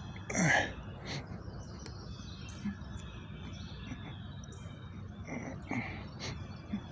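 Outdoor background noise with scattered faint bird chirps.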